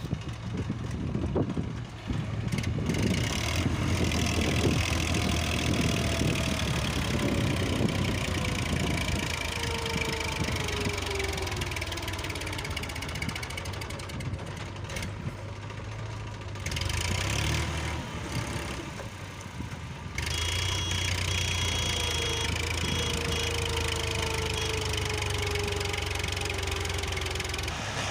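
Massey Ferguson 9000 tractor's diesel engine running under load with a knocking clatter, its pitch sagging and recovering, with several abrupt changes where the recording cuts.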